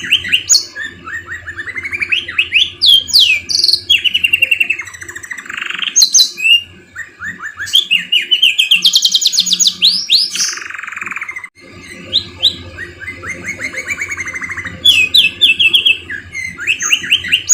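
Domestic canary singing a long, loud, varied song of fast trills, rising and falling whistled glides and buzzy rolls, its repertoire filled in with phrases learned from a magpie-robin (murai). The song breaks off briefly just past the middle, then resumes.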